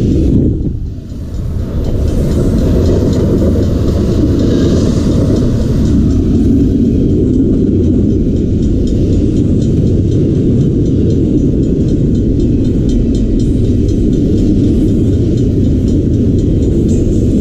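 Intermodal freight train's cars rolling past at speed: a steady, loud low rumble with faint regular clicks of wheels over the rails.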